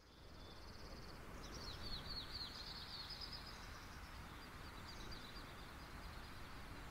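Faint outdoor ambience with a low rumbling haze and small birds chirping: a quick high trill in the first second, then a run of rapid high downward chirps, fading to fainter chirping.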